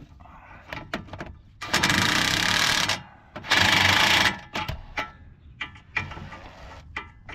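Hand ratchet wrench clicking rapidly in two runs of about a second each, a little after the start and again just after, with scattered metal clicks and knocks of tools between them.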